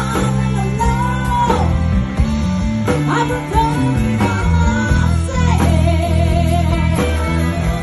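Live rock cover band playing, with electric guitar, bass and drums and a sung or lead-guitar melody line.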